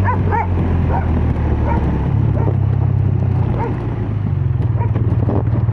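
BMW R12 nineT's air/oil-cooled boxer twin running through its exhaust on the move. The engine note sinks midway, then picks up again with a pulsing beat near the end. Repeated short calls sound over it.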